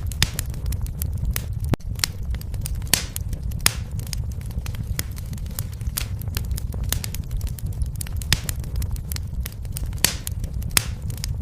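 Fire burning in a fireplace, crackling: irregular sharp pops and snaps over a steady low rumble.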